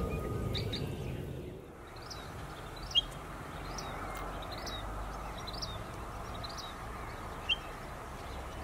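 Bird chirping over a steady outdoor background: short calls repeat about once a second, with two sharper, louder notes, one about three seconds in and one near the end. Fading intro music is heard at the start.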